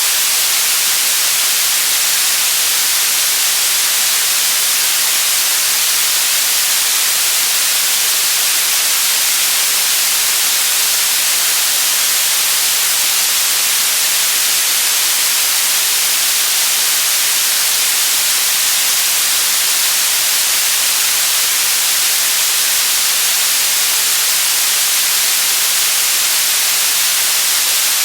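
Generated white noise: a steady, unchanging hiss, brightest in the treble and thin in the bass.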